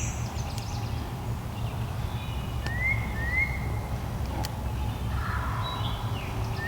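Wild birds calling in the woods: a few short, rising chirps over a steady low rumble of background noise.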